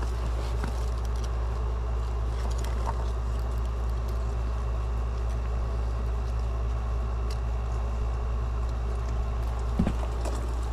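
An engine idling steadily: a constant low rumble with a few faint clicks over it.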